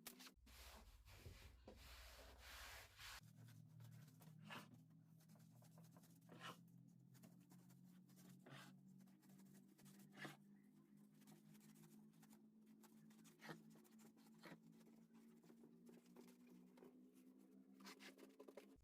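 Near silence: faint rubbing or scratching with a scattering of small clicks over a low steady hum.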